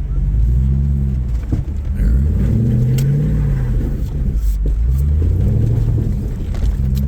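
Off-road vehicle engine revving up and falling back in about three slow surges, the way it does while crawling over boulders, with a few sharp knocks in between.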